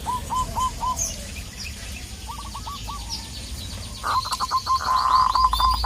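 Zebra doves giving their rapid staccato coo, strings of short clipped notes about four a second: a run at the start, a brief group midway, and a longer run from about four seconds in. Smaller birds chirp thinly and higher above them.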